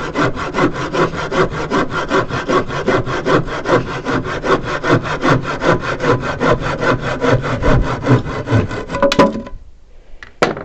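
Handsaw (rabo de zorro panel saw) cutting through wood in quick, even strokes, stopping about nine seconds in. A sharp knock follows near the end.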